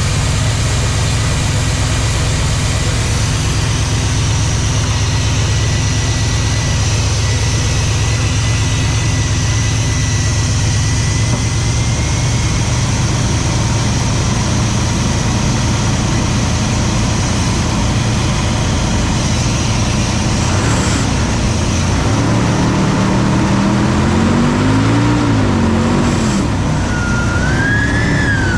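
Chevy 350 small-block V8 running steadily, revved up and let back down about three-quarters of the way through. A high rising-and-falling whine comes in near the end.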